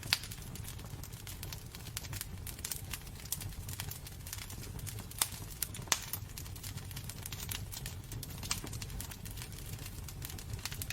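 Wood fire burning in a fireplace: irregular sharp crackles and pops over a low steady rumble, with a few louder snaps near the start and about five to six seconds in.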